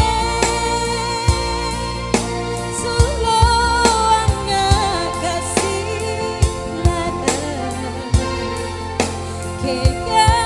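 Live band music: a singer holding wavering notes over a steady bass line and a regular drum beat.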